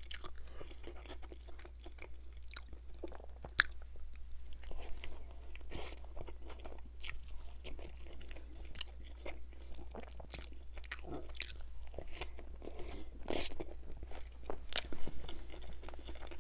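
Close-miked eating of a McDonald's McChicken sandwich: bites and chewing with irregular crunches and wet mouth clicks.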